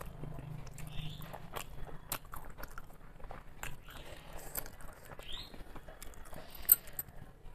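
Close-up eating sounds of a person eating rice and vegetables by hand: wet chewing, lip smacks and many small clicks, with one sharp louder click near the end.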